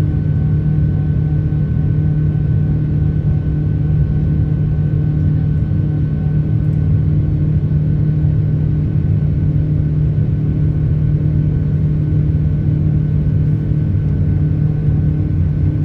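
Boeing 787-9 cabin noise: the Rolls-Royce Trent 1000 engines and airflow making a loud, steady drone with a low hum and a few fainter steady tones above it, unchanging throughout.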